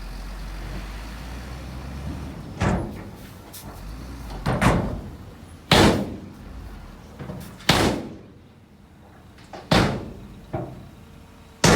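Six loud bangs at irregular intervals, about one to two seconds apart, over a low engine rumble that drops away about two seconds in.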